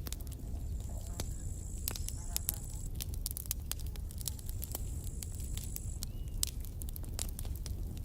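Campfire burning, with constant crackles and sharp pops over a low steady rumble of the flames.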